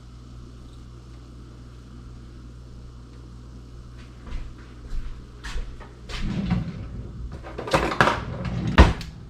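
Steady low hum, then from about four seconds in a series of knocks and clatter from things being handled in a kitchen, ending in a sharp thump.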